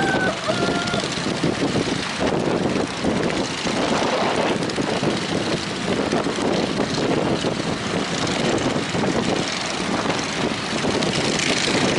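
Strong wind and breaking sea waves: a steady rushing noise that swells and eases.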